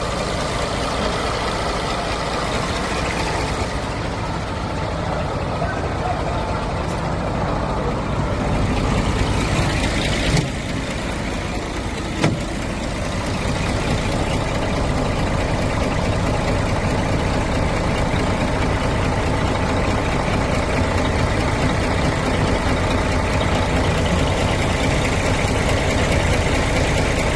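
Vehicle engine idling steadily, with two brief knocks about ten seconds in and again two seconds later.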